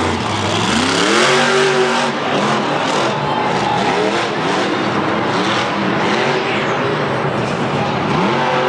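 Monster truck's supercharged V8 engine revving hard: its pitch climbs steeply during the first second or so, then holds high and wavers as the throttle is worked.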